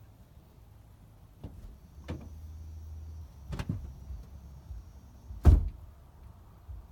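Pickup truck cab and door sounds: a few clunks, a short low hum about two seconds in, and one loud door slam about five and a half seconds in.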